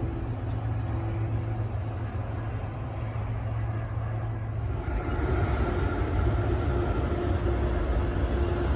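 Diesel locomotive of a passing freight train, running with a steady low drone and a steady hum, growing louder about five seconds in.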